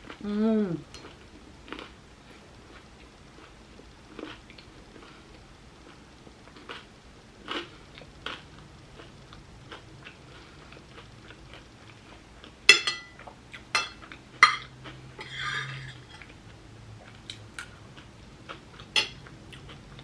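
Close-up eating sounds: crunching and chewing of a chickpea "tuna" salad sandwich and crisp chips, with scattered sharp crunches and a cluster of louder ones about two-thirds through. A short falling "mmm" of enjoyment right at the start.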